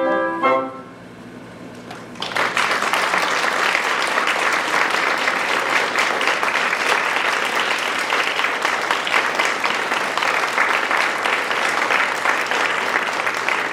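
An orchestra's final chord with brass cuts off in the first second. After a short hush, the audience bursts into steady applause about two seconds in.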